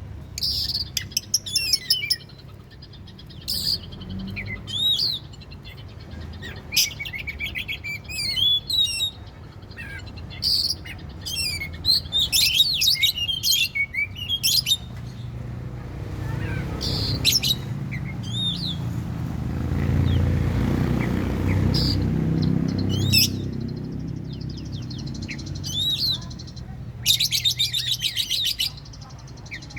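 Oriental magpie-robin song: a string of varied high whistled phrases, curving notes and rapid scratchy rattles, with short gaps between phrases. A low rumble swells and fades in the middle.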